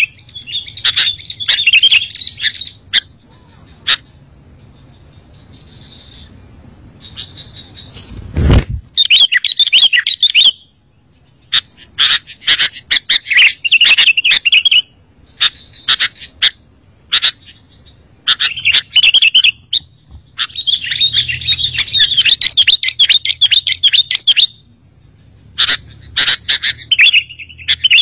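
Sooty-headed bulbul (kutilang) singing in repeated bursts of fast, chattering chirps with short gaps between them. A loud thump comes about eight seconds in.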